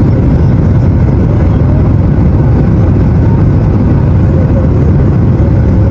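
Steady loud drone of an airliner's engines and airflow, heard from inside the passenger cabin.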